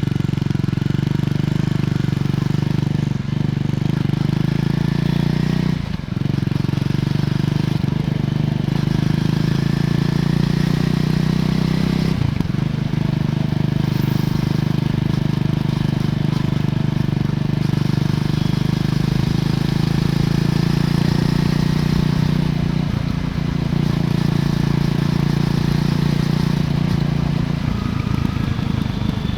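Triumph Scrambler 400 X's single-cylinder engine running steadily through its stock exhaust while riding, with a few brief dips in the note.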